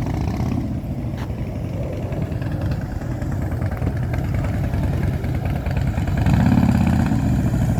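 A vehicle engine idling with a steady, pulsing low rumble, getting louder about six seconds in.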